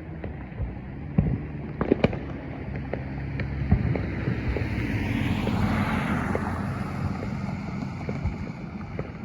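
Distant fireworks going off with irregular sharp bangs over a low steady rumble and wind on the microphone. A rushing noise swells and fades about five to seven seconds in.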